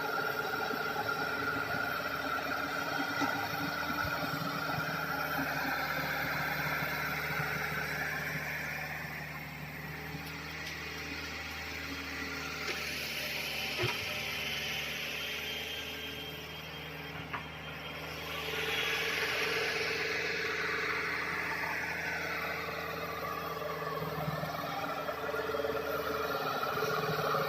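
Hitachi excavator's diesel engine running, easing off near the middle and picking up again, with a couple of sharp knocks.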